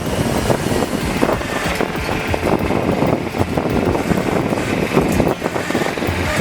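Heavy truck running with engine rumble, and wind buffeting the microphone.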